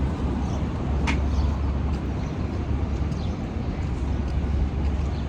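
Outdoor city street ambience, dominated by a steady low rumble, with a short sharp click about a second in.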